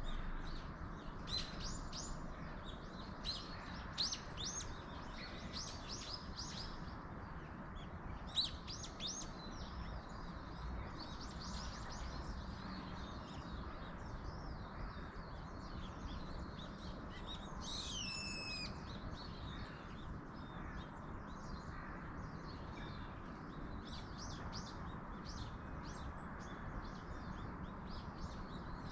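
Wild birds chirping and twittering in quick runs of high notes, with one clear call sliding steeply down in pitch a little past the middle, over a steady rushing background hiss.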